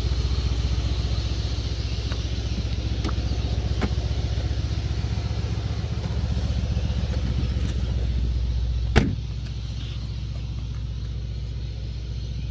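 Mercedes-AMG C63 S's 4.0-litre twin-turbo V8 heard from inside the cabin while driving, a steady low drone. A sharp click about nine seconds in, after which the engine sound drops to a quieter level.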